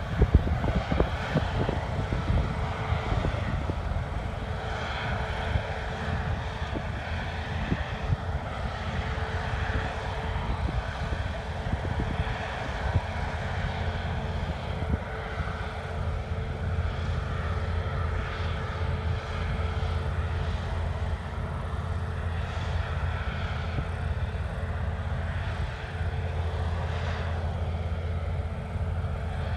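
Farm harvest machinery running steadily: a continuous low engine drone with a constant tone above it and a broad mechanical rush.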